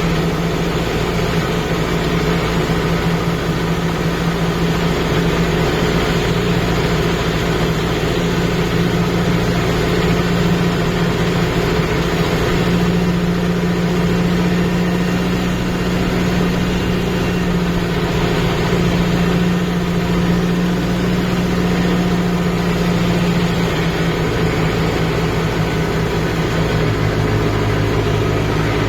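Kubota MU5502 tractor's four-cylinder diesel engine running steadily. Its note shifts slightly about halfway through and again near the end.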